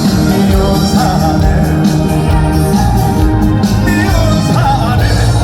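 Live trot music played loud through a concert sound system: a male singer over an amplified backing band with heavy bass.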